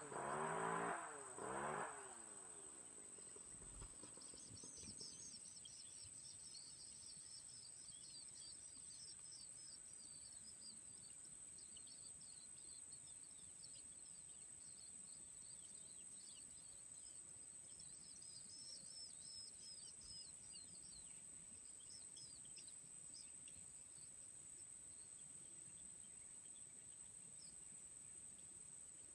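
Small birds chirping in rapid high runs over a steady, thin, high-pitched insect drone. The chirping thins out in the last few seconds. It opens with a louder pitched sound that wavers for about two seconds.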